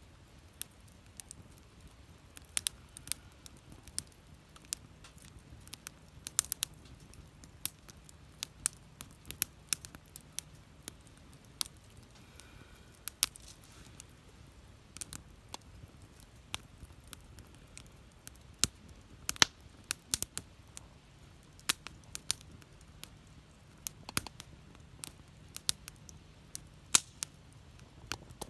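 Wood fire crackling, with irregular sharp pops and snaps, several a second, over a faint steady low rumble.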